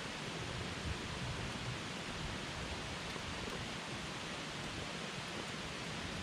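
Wood campfire burning: a steady, even hiss and rustle of the flames.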